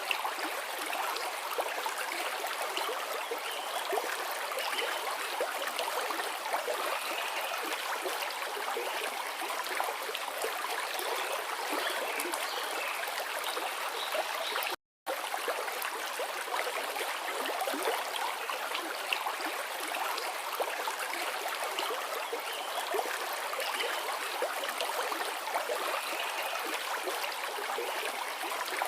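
Forest river flowing, a steady rushing and babbling of water over rocks. The sound cuts out completely for a split second about halfway through.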